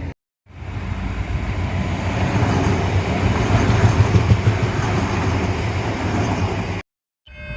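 A train passing, a dense rumble with heavy low-end that swells to its loudest about halfway through and then eases off.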